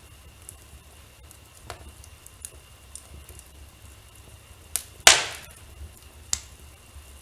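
Wood fire crackling in a fireplace: scattered small snaps, then one loud pop about five seconds in that trails off with a brief hiss.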